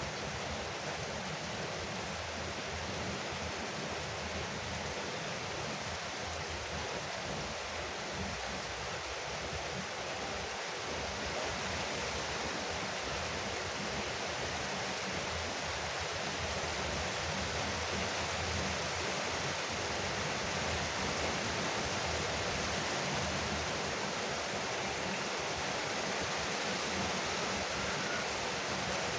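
Rain falling steadily on a porch roof, an even wash of noise that grows slightly louder partway through.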